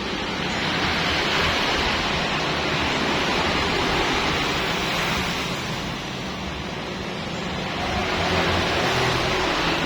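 Pressure-washer water spraying, a steady rushing hiss with a low hum beneath it, swelling louder twice.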